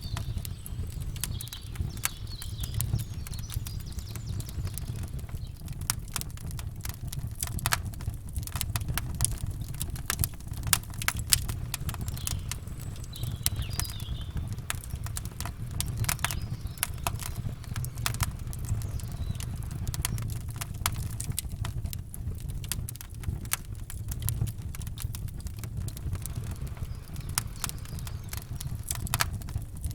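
Wood campfire crackling, with frequent sharp pops and snaps at irregular intervals over a steady low rumble. Faint bird chirps come through briefly near the start and again about halfway.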